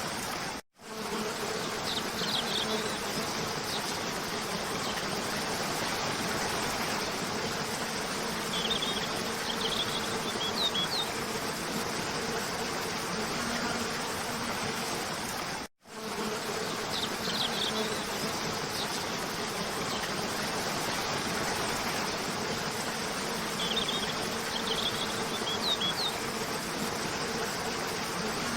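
Steady rush of cascading waterfall water with a faint low hum, and short clusters of high bird chirps every several seconds. The sound cuts out for an instant twice, where the looped track starts over.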